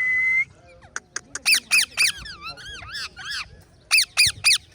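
Parrot calling: sharp squawks in quick groups of three, with a run of warbling, wavering calls between them, after a short steady whistle in the first half second.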